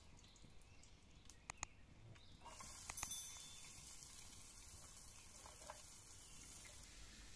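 Sliced onions dropped into hot oil in a metal pan over a wood fire, setting off a steady sizzle that starts suddenly about two and a half seconds in. A few light clicks come before it.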